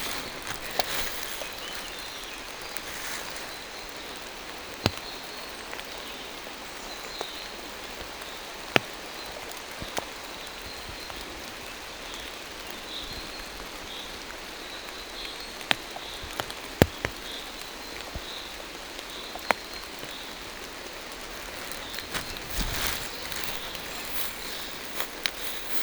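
Steady rain falling through forest trees, with single heavy drops striking close by as about a dozen sharp ticks. A faint high bird chirps repeatedly in the background in the middle, and footsteps rustle on the wet ground near the start and near the end.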